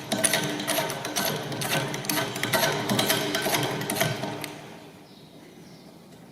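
17mm ratchet clicking rapidly as a bolt is wound out, stopping about four and a half seconds in.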